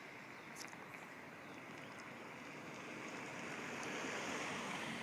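Outdoor rushing noise that swells to its loudest about four seconds in and then eases, with a few faint, short bird chirps over it.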